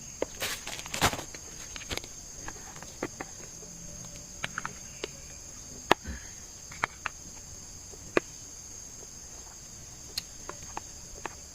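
Insects droning steadily at a high pitch, with scattered light clicks and taps over the top.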